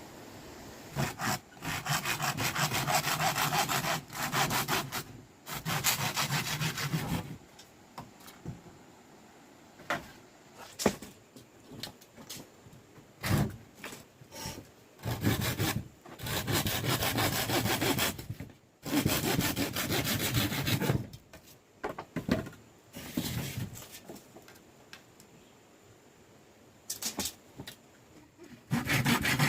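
Sawing wood in several bouts of a few seconds each, with scattered single knocks in the pauses between them.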